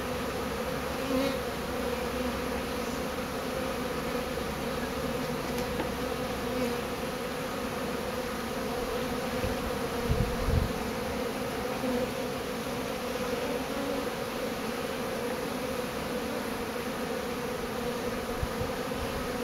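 A large honeybee swarm buzzing close by, a steady, unbroken hum of many bees. A couple of brief low bumps about ten seconds in.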